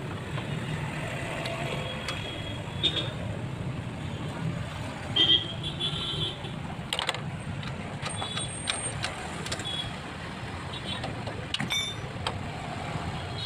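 Steady road-traffic rumble with several short, high-pitched horn toots and scattered sharp clicks.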